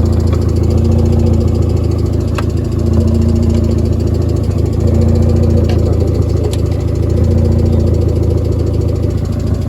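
Hyundai Excel's four-cylinder engine idling steadily, its drone swelling slightly every couple of seconds, with a few faint clicks.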